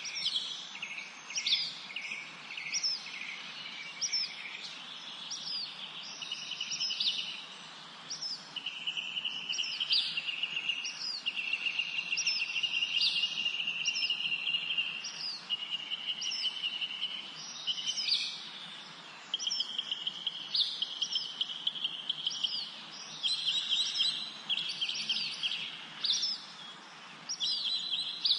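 Several songbirds singing together, with short sharp high chirps repeating about once or twice a second and longer trills running under them, the longest lasting several seconds. A faint steady hiss of outdoor background noise lies beneath.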